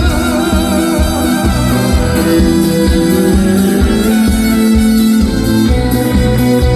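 Live trot band music: an instrumental passage with a steady beat and sustained melody tones, with no singing.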